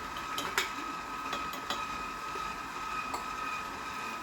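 Electric mixer motor running at a steady speed as it beats batter, with a few light clinks of utensils against the bowl, most of them in the first two seconds.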